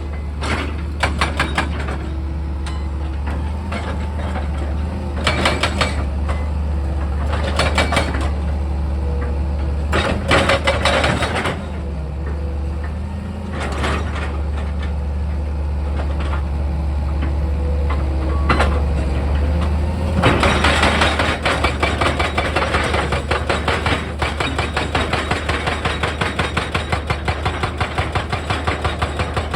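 Excavator's diesel engine running steadily, with repeated short bursts of scraping and crunching from the bucket working rock and earth. About two-thirds of the way through the noise gets denser and turns into a fast, regular knocking about three times a second.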